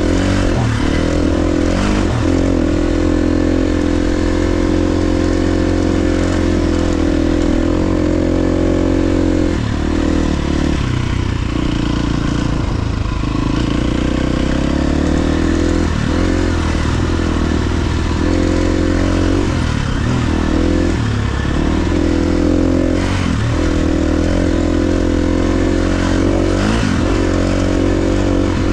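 KTM 350 XC-F dirt bike's single-cylinder four-stroke engine running under way off-road, its pitch rising and falling with the throttle, dipping several times as the rider backs off and gets back on the gas.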